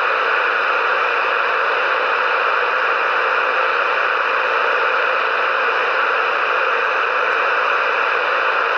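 CB radio receiver hissing with steady static between transmissions, with no one keyed up on the channel.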